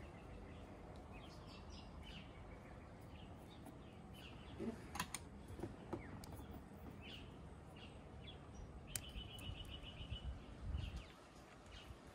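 Birds chirping, with short high chirps scattered throughout and a quick trill about nine seconds in, over a low steady outdoor rumble. A couple of sharp clicks come around the middle and a few soft low bumps near the end.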